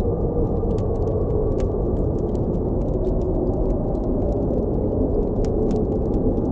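Blizzard wind blowing as a steady low rush, with a campfire crackling over it in sharp pops and snaps several times a second.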